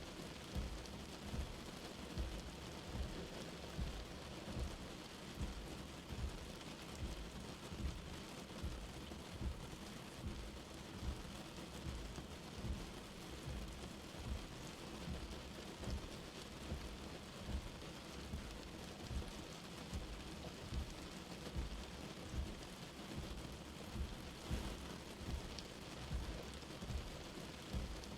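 Light rain falling steadily as an even hiss, with soft low thuds of drops every second or so.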